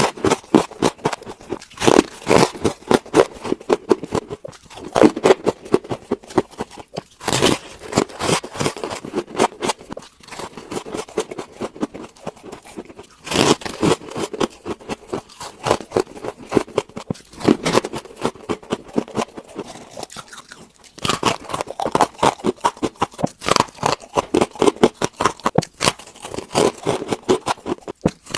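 Freezer frost ice being bitten and chewed: dense, continuous crunching, with a louder bite every few seconds.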